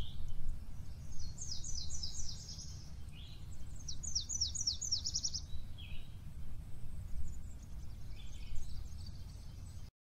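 Songbird singing: two phrases of quick, high, downward-sweeping notes, with a few softer, lower calls between them, over a steady low rumble.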